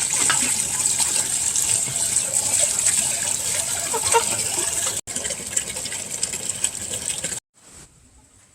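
Water gushing and splashing steadily. It breaks off for an instant about five seconds in, then cuts off abruptly near the end, leaving a much quieter background.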